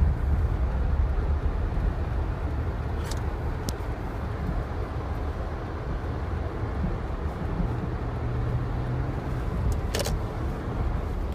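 Steady low rumbling noise with a few faint, brief clicks.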